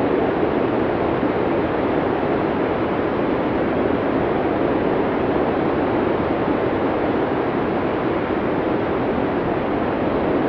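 Blizzard wind sound effect: a steady, unbroken rush of storm wind, even throughout, with no gusts or howls standing out.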